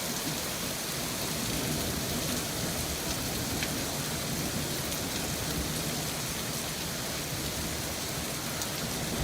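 Steady rain falling, an even hiss with faint scattered drop ticks, during a lightning storm.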